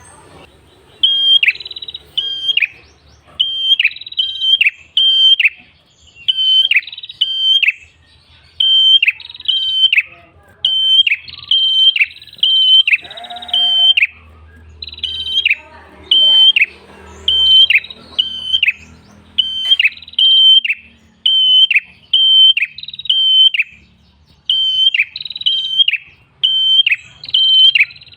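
Prenjak kepala merah singing persistently: short phrases of three or four sharp, high chirping notes, repeated about every second and a half without a break.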